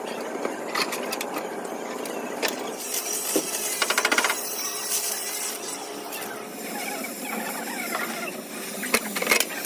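Metal tools clinking and knocking during roadside car repair work, with a brief fast rattle about four seconds in.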